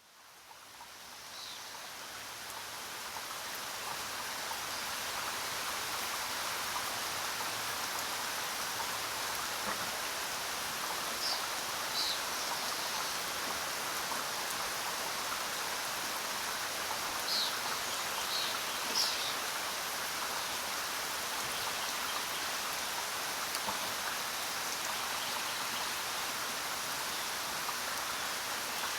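Steady heavy rain falling on jungle foliage, fading in over the first few seconds. A few short high bird chirps are scattered through the middle.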